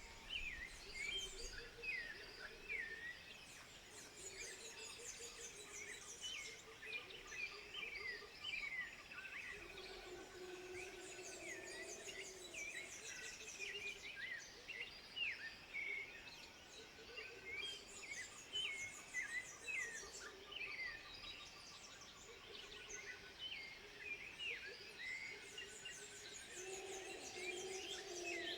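A dense chorus of many birds chirping and whistling, with short, quick calls that overlap continuously. Lower, drawn-out calls come in around ten seconds in and again near the end.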